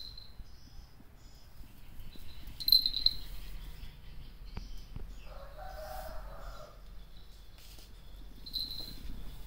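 Birds chirping in short high calls, loudest about three seconds in and again near the end, with one longer, lower call of about a second and a half near the middle.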